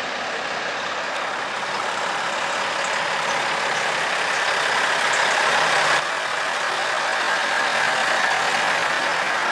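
Diesel semi-truck engine running, getting louder over about six seconds, then dropping off suddenly and carrying on steadily.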